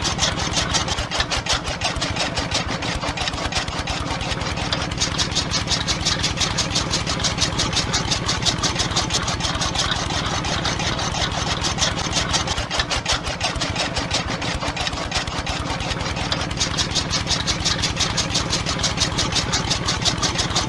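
Small motor running steadily with a rapid, even chugging, spinning the flywheel of a miniature chaff cutter.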